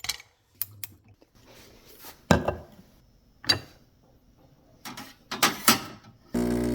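Several separate knocks and clinks of espresso equipment being handled. Near the end, a loud steady hum begins suddenly, typical of an espresso machine's pump starting.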